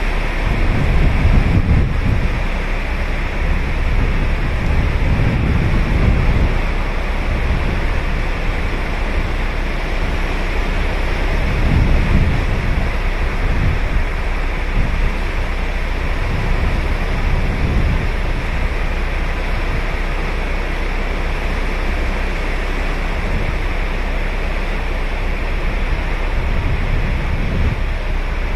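Ocean surf: waves breaking and washing up a sandy beach in a steady hiss, with deeper surges every few seconds.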